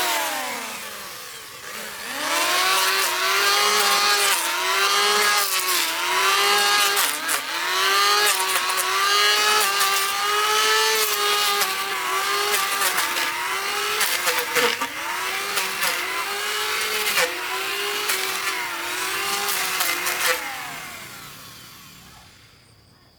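A power tool's motor running under load, its pitch dipping and recovering over and over as it bites into the work, then winding down and fading out near the end.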